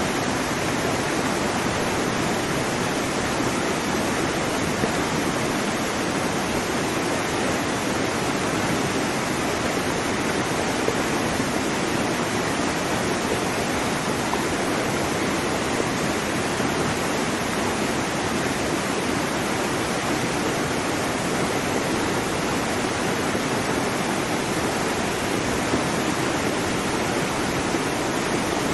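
Waterfall: falling water rushing in a steady, unbroken roar of white noise.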